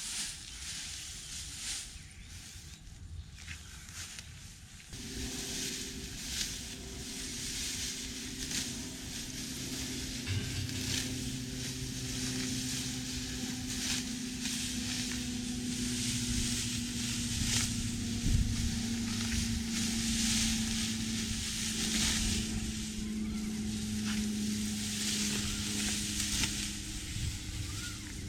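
An engine comes in about five seconds in and runs steadily, over a continuous crackling, rustling hiss.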